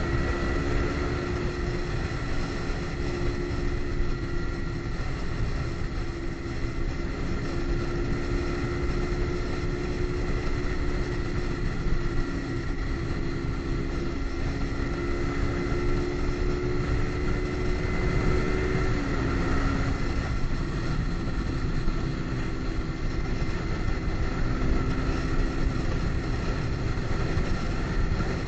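Kawasaki Ninja sport bike engine holding a steady drone at cruising speed over a heavy low rush of wind and road noise. About nineteen seconds in the pitch drops a little, then holds steady again.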